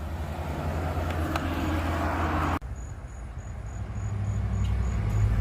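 Steady low hum of a running motor vehicle, broken off abruptly about halfway through, then resuming with faint, evenly spaced high pips about three times a second.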